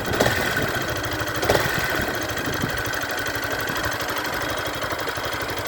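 Yamaha Factor 150 single-cylinder motorcycle engine idling steadily, with a mechanical noise that the owner calls ugly and blames on a factory fault.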